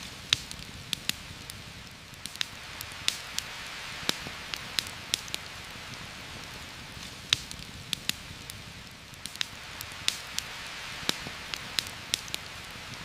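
Heavy rain falling steadily through forest leaves, with a campfire crackling: irregular sharp pops over the even hiss of the rain.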